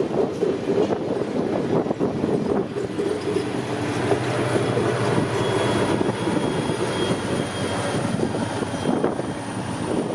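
A train running by, a loud, steady rumble of rolling noise with faint steady tones in it.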